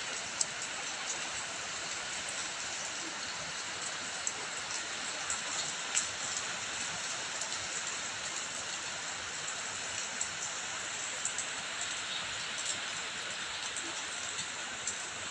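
Steady rain with running water, with many scattered sharp drips and drops hitting a surface.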